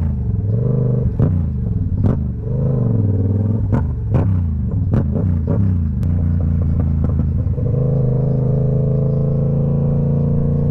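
Motorcycle engine running under way, its pitch rising and falling with the throttle, with sharp clicks in between; about two-thirds of the way through it settles into a steady even note.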